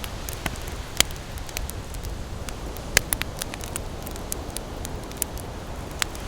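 Campfire crackling, with irregular sharp pops, the loudest about one and three seconds in, over a steady low rush of ocean waves.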